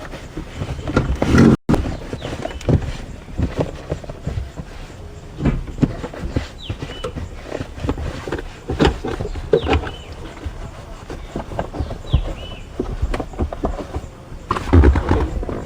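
Irregular knocks, bumps and rubbing, like hands working and handling objects, with a few short high squeaks that fall in pitch.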